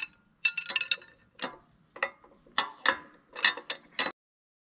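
Ratchet wrench clicking in short bursts, about one stroke every half second, turning the 1-inch Grade 8 bolt. The sound cuts off suddenly just after four seconds.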